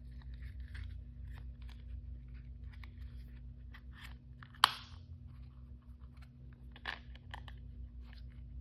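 Plastic toy packaging crinkling and rustling in short irregular bursts as it is handled and opened, with one sharp click a little over halfway through.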